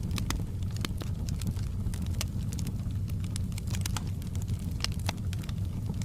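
Wood fire burning in a fireplace: a steady low rumble of the flames with irregular sharp crackles and pops of burning wood.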